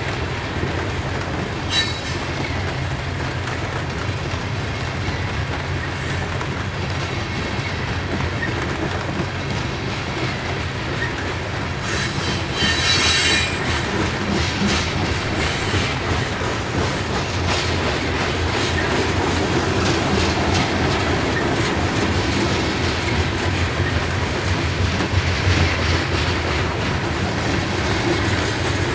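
Long freight train of covered hopper cars rolling past, with a steady rumble and clatter of wheels on rail. High-pitched wheel squeals cut through: a short one about two seconds in and a stronger, longer one around twelve to thirteen seconds in.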